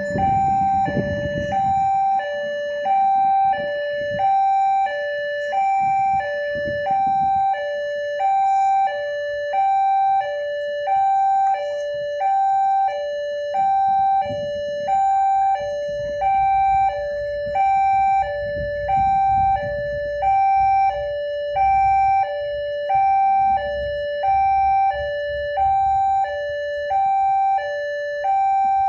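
Indonesian railway level-crossing alarm sounding its two-tone warning, a higher and a lower tone alternating about once a second without stopping, the signal that a train is approaching and the barriers are down. A low rumble builds underneath in the second half.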